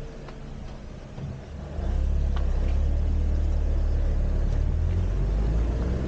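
Convertible car's engine running at a standstill, then pulling away about two seconds in, with a much louder low rumble as it accelerates.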